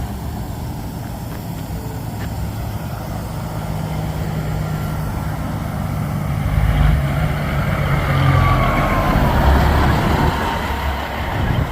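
Semi-truck diesel engine running, growing louder partway through, with a whine that falls in pitch for a couple of seconds.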